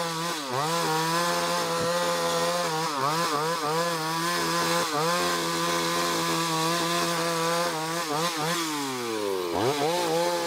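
Two-stroke chainsaw cutting deep into the base of a tree, its engine pitch dipping and recovering again and again as the chain works through the wood. Near the end the pitch falls steadily for over a second, then climbs back up.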